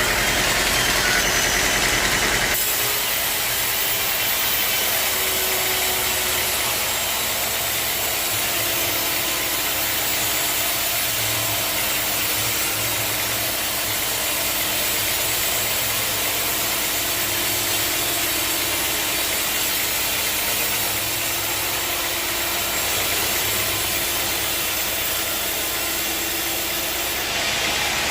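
Sawmill machinery running steadily, with a motor's hum and sawing noise. The sound shifts about two and a half seconds in, the low hum dropping away into a more even hiss, and the hum comes back near the end.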